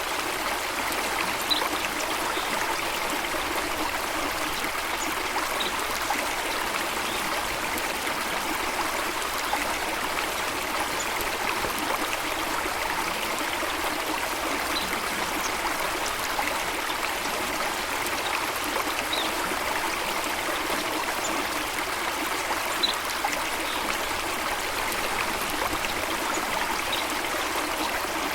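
Steady flowing water, an even rushing and trickling of a stream or cascade, with a few faint, brief bird chirps scattered through it.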